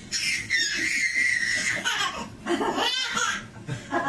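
A baby laughing: a long high squeal over the first two seconds, then shorter bursts of laughter.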